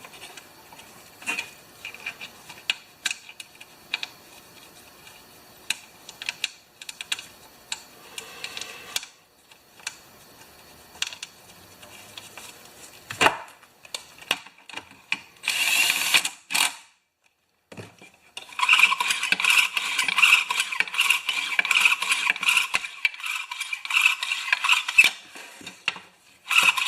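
Clicks and knocks from a Honda HR214's recoil starter being handled and fitted together, then, from about two-thirds of the way through, a long run of quick rattling clicks from the starter mechanism.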